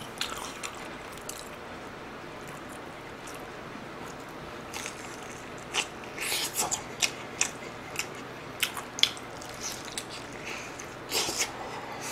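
Close-up biting and chewing of sauce-coated fried chicken: short, sharp mouth and crunch sounds that come in scattered clusters, mostly in the second half.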